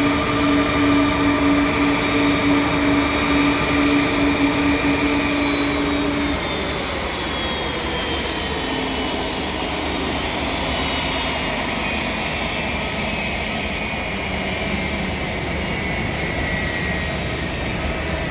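Airbus A330-300 cargo jet's engines running at low power while it taxis: a steady jet rush with thin whining tones that slowly fall in pitch. A strong low hum stops about six seconds in and the sound gets a little quieter.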